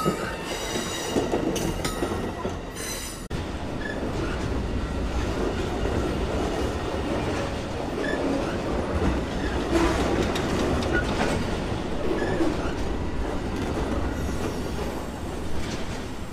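Amtrak Auto Train cars rolling slowly past close by. For about the first three seconds steel wheels squeal with a high ringing that stops abruptly; after that comes a steady rumble of wheels on rail as the enclosed auto-carrier cars go by.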